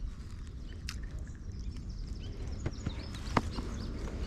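Outdoor lakeshore ambience: a steady low rumble with a few sharp clicks or taps, the loudest about three and a half seconds in, and faint bird chirps.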